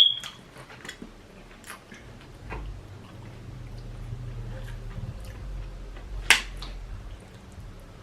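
Chewing and eating sounds: scattered wet mouth clicks and smacks, with a sharp click at the start and a louder one about six seconds in.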